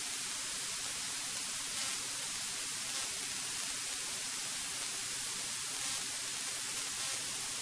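Steady static hiss of a cockpit intercom audio feed, with a faint steady low hum underneath.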